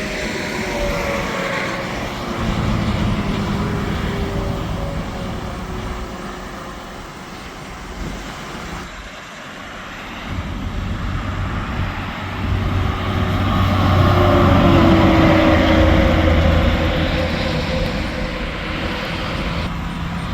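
Interstate highway traffic passing at speed, with heavy trucks among it: the noise swells as one vehicle goes by about three seconds in, and again, louder, with a low engine drone and falling pitch as a bigger vehicle passes about two-thirds of the way through.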